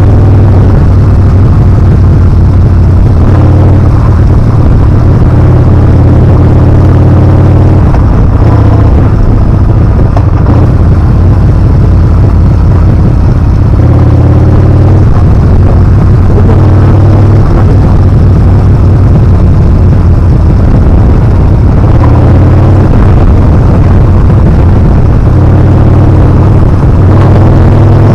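Yamaha Bolt R-Spec's air-cooled V-twin engine running loud and steady under way, its pitch stepping up and down several times as throttle and gears change.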